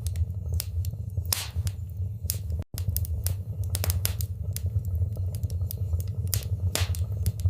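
Wood fire crackling in a fireplace: irregular sharp pops and snaps over a steady low rumble of burning. The sound briefly drops out about a third of the way in.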